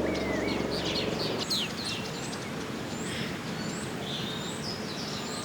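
Several birds calling: quick high chirps and short downward-sweeping notes, with a run of brief repeated high whistles in the middle. A low steady hum underlies the first second or so.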